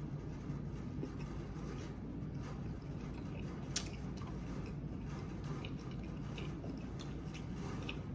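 A person chewing a bite of jus-dipped Italian beef sandwich, giving soft wet mouth clicks over a steady low hum, with one sharper click about four seconds in.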